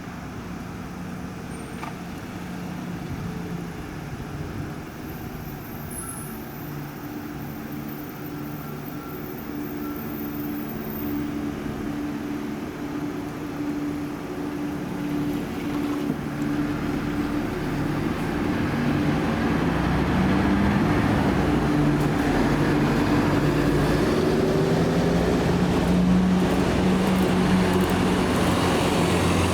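Diesel engines of buses in a queue running, with road noise. From about halfway the sound grows steadily louder as a bus draws close, its engine note rising.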